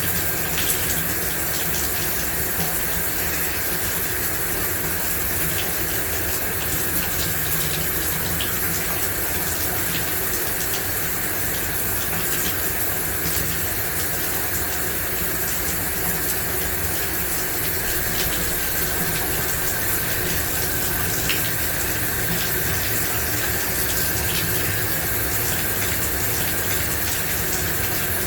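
Shower running steadily: an even hiss of water spray pattering down, with no break or change.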